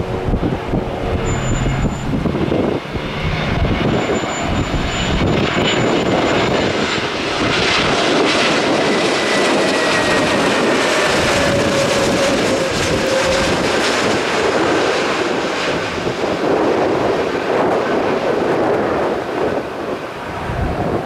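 Jet engines of an Airbus neo airliner on final approach flying past, a steady loud rush with a whine that slowly falls in pitch as the plane passes. Wind buffets the microphone.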